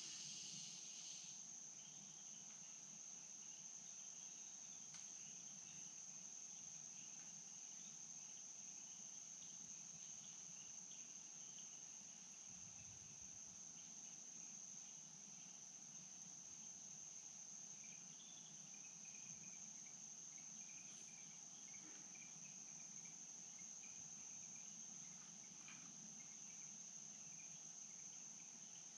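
Insects droning steadily at one high pitch, faint, with a second buzzing voice that stops about a second in and scattered faint chirps, over a low hiss of flowing stream water.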